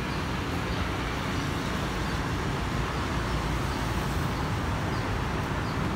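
Steady background noise: a low rumble and hiss like distant road traffic, with a few faint short high chirps now and then.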